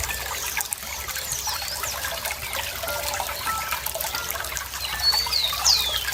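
Running water trickling and gurgling steadily, with a songbird's quick falling chirps, once a little over a second in and a few times near the end, the last of them the loudest.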